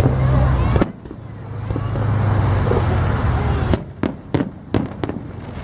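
Fireworks display: a low, rolling rumble of shell bursts that breaks off just under a second in and comes back, then a quick string of about six sharp cracks in the second half.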